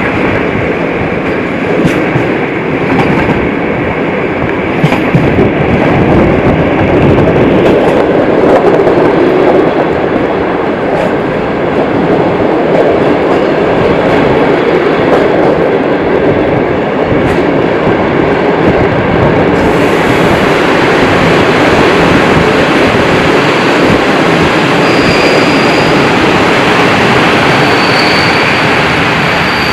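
Passenger train running into a station, heard from the carriage: steady rumble of wheels on rails with irregular clicks over rail joints and points. Near the end a thin high brake squeal comes in a few times as it slows.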